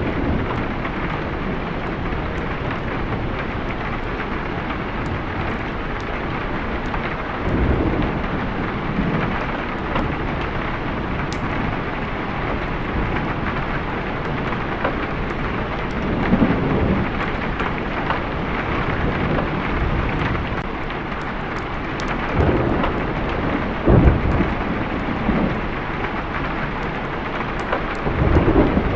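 Steady heavy rain with thunder rolling in several low rumbles: about a quarter of the way in, near the middle, twice a little past two-thirds of the way, and again at the end.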